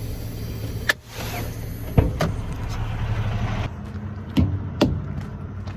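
Semi-truck tires struck one after another to check their air pressure, four sharp dull thuds, over the low hum of the truck's idling diesel engine. The driver judges that they all sound terrible.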